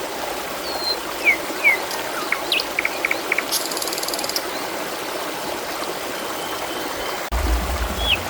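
Steady trickling stream water, with small birds chirping over it: short sliding whistles, a quick buzzy trill about three and a half seconds in, and a thin held whistle. A low rumble cuts in abruptly near the end.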